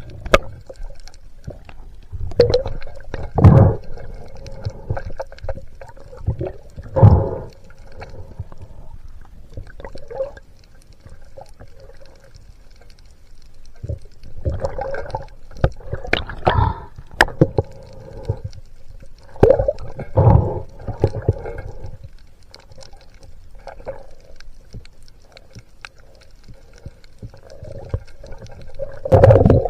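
Water gurgling and bubbling against a camera in the sea, in irregular louder surges every few seconds over a steady watery wash.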